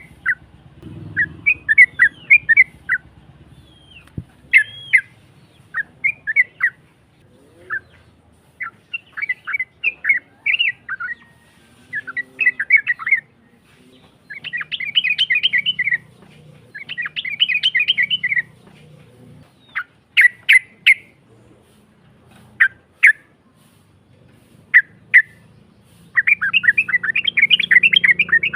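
Yellow-vented bulbul (trucuk) singing a rough-voiced song of short bubbling, chattering phrases, repeated every second or two. Some phrases run on longer as rapid strings of notes, most of all near the end.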